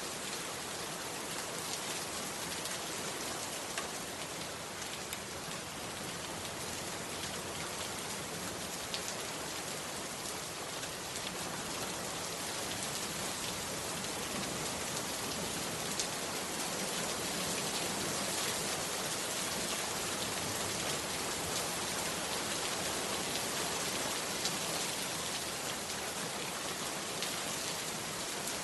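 Heavy rain falling steadily, with a few sharper individual drop hits standing out now and then.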